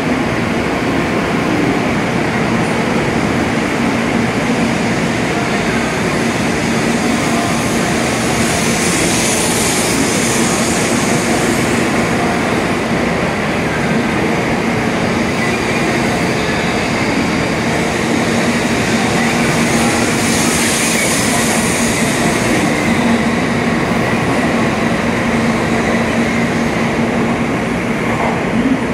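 N700S Shinkansen train pulling out of the station, its carriages rolling past close by as it gathers speed: a steady electric hum over wheel-and-rail noise, with a higher hiss swelling twice. The tail car passes near the end.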